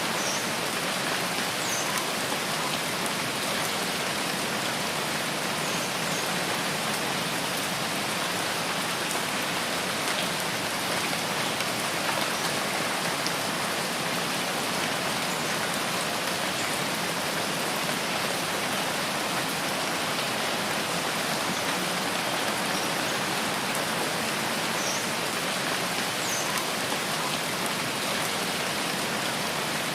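Steady rain falling in a rainforest, an even unbroken hiss, with a few faint short high chirps now and then.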